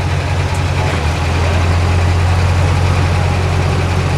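Heavy vehicle engine running at a steady idle, a loud low drone that grows a little stronger about a second in.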